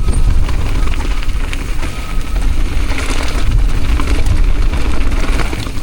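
Mountain bike rolling down a rough, wet trail: a steady low wind rumble on the microphone with scattered clicks and rattles from the bike over the ground.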